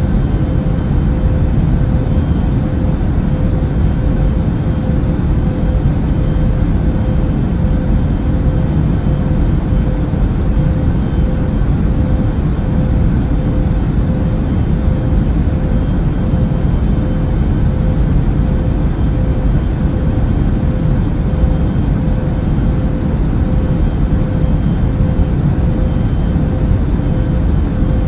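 Airbus A380 cabin noise in cruise: a steady, unchanging rumble of engines and airflow, deepest in the bass, with a faint steady hum tone running through it.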